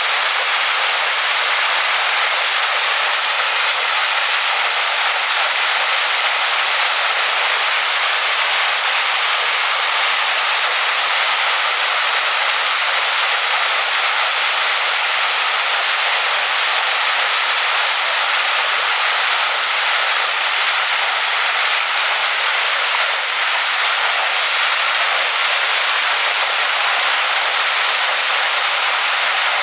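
Waterfall crashing onto rocks: a loud, steady hiss of falling water, bright and airy with little low rumble.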